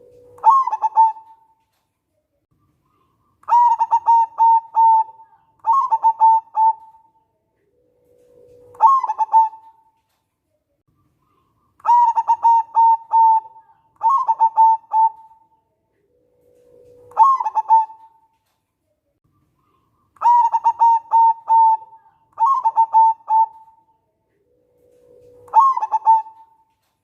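Local zebra dove (perkutut) singing: each phrase opens with a short low note, then several quick clusters of rapid trilled coos at a higher pitch. The phrase repeats regularly, about every eight seconds, three times.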